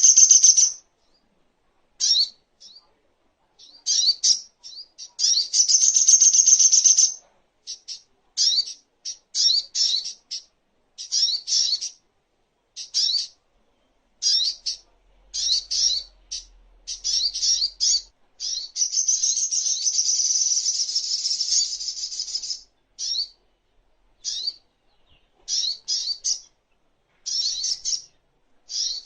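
Sogok ontong (spiderhunter) singing: a run of short, high-pitched chirping phrases broken by brief pauses, with two longer unbroken stretches of rapid chattering, one a few seconds in and one just past the middle.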